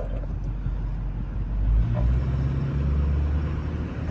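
6.4-litre Power Stroke V8 turbo-diesel idling: a steady low hum that changes character about two seconds in.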